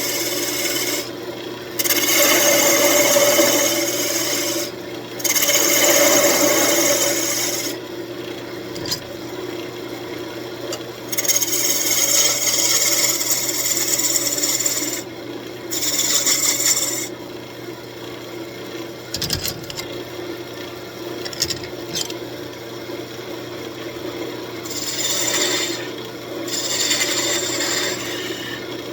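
Wood lathe running with a steady motor hum while a tool is worked against the spinning walnut in passes of a few seconds each, with short pauses between. A few light clicks come about two-thirds of the way in.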